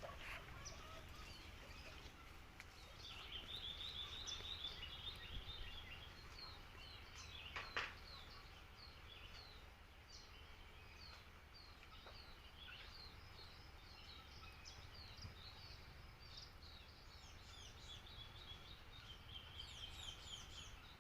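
Wild songbirds chirping and trilling faintly in repeated short high notes, with a single sharp click about eight seconds in.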